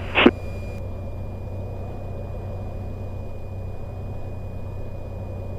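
Cessna 182's six-cylinder piston engine idling on the ramp, heard as a steady, even low hum, with a thin steady high tone above it.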